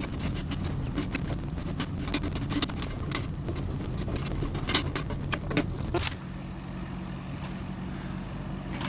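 Kubota KX71-3 mini excavator's diesel engine running, with many sharp cracks and knocks over it as the machine works through brush and dirt. About six seconds in the knocking stops and the engine settles to a steadier note.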